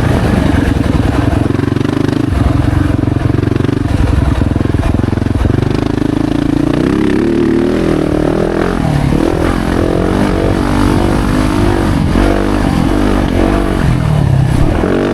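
2025 Yamaha YZ450F's 450cc four-stroke single-cylinder engine under load. It holds a steady pitch for the first half, then revs up and down repeatedly through the second half as the throttle is worked.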